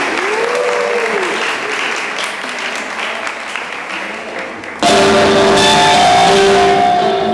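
Audience applauding, with a brief rising-then-falling tone over the clapping in the first second. About five seconds in, louder music with held notes starts abruptly.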